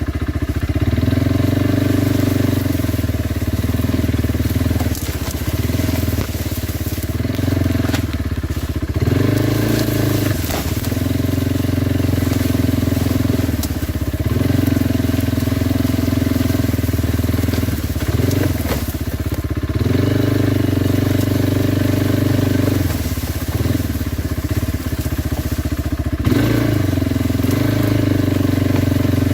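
Kawasaki Brute Force 300 ATV's single-cylinder engine running under way, the throttle easing off and coming back on every few seconds, with tyres crunching over loose stone.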